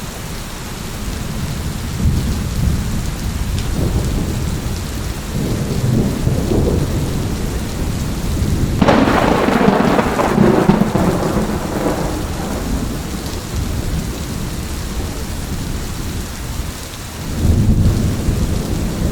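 Thunderstorm: steady rain with rolling thunder, the rumbles swelling over the first seconds, a sharp, louder clap about halfway through that rumbles away over a few seconds, and another low rumble rising near the end.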